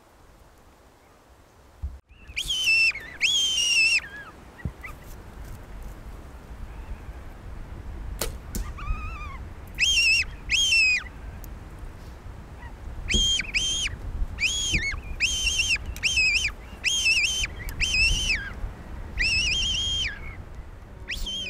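A bird calling again and again: short, high, arched calls, mostly in pairs, beginning about two seconds in, over a low rumble. A single sharp click comes near the middle.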